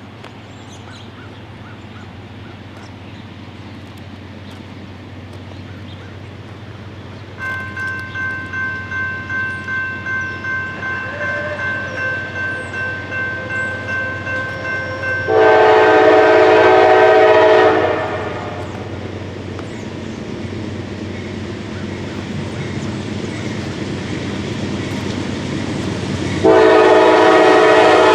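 Norfolk Southern GE D9-44CW locomotive approaching with a building diesel rumble, as a grade-crossing warning bell starts ringing a third of the way in with an even pulse of about two strokes a second. The locomotive's air horn then sounds one long blast of about two and a half seconds, and a second blast begins near the end.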